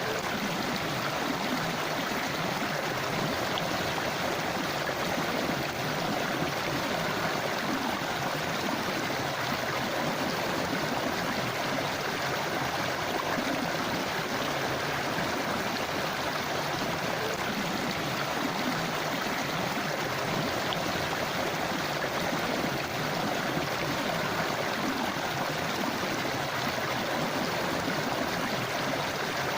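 Forest river flowing steadily over rocks, a continuous rushing and babbling of water.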